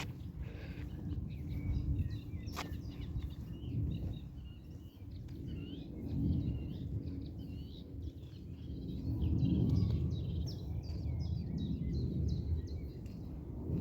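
Small birds chirping in many quick, short notes, busiest in the second half, over a steady low rumble of outdoor noise that swells about ten seconds in. A single sharp click sounds a couple of seconds in.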